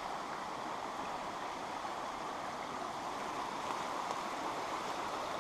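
Small trout stream flowing and burbling, a steady rush of running water.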